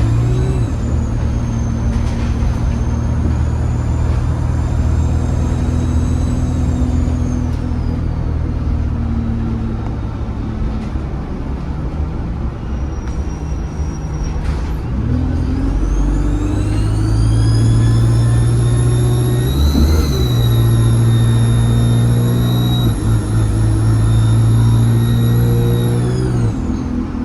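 ADL Enviro 200 bus's diesel engine heard from on board, with a high turbo whistle. Early on the whistle sinks and fades as the engine eases off. About halfway through it rises again as the bus pulls away, holds high for several seconds and drops away near the end.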